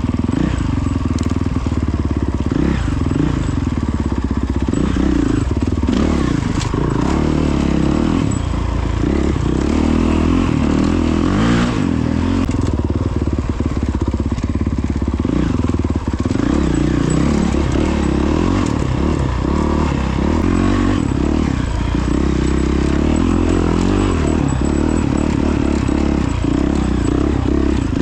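Honda CRF450X dirt bike's single-cylinder four-stroke engine running as it is ridden off-road, its pitch rising and falling with the throttle, with a few sharp knocks and clatter from the trail.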